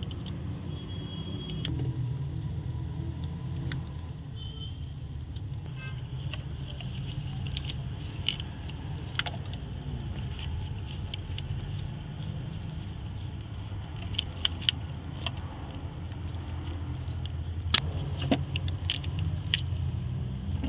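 Metal tools and parts clinking and clicking now and then during work in a car's engine bay, over a steady low hum.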